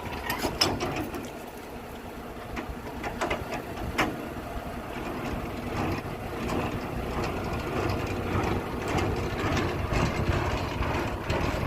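Semi truck's diesel engine and road noise heard from inside the cab while driving, with scattered clicks and rattles in the first few seconds, getting louder over the second half.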